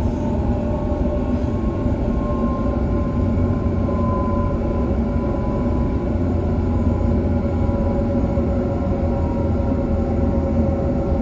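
Electric suburban passenger train running between stations, heard from inside the carriage: a steady rumble of wheels on track with a constant high tone over it.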